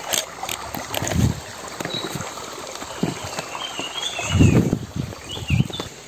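A bird gives high, wavering whistled calls a few times in the second half, over steady forest and stream background. Several dull low thumps stand out, the loudest about four and a half seconds in.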